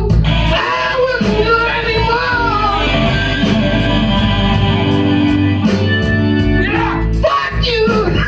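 Live blues-rock band playing: an electric guitar line with bent, sliding notes over bass and drums for the first couple of seconds, then held sustained notes over a steady drum beat.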